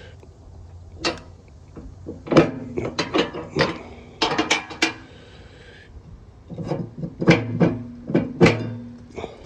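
Metal receiver-hitch parts being handled: a run of sharp clanks and knocks about two seconds in, then a second run late on, some with a brief ringing tone.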